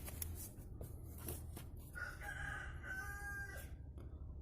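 A single long bird call, like a rooster's crow, starting about two seconds in and lasting under two seconds. A few faint clicks come before it.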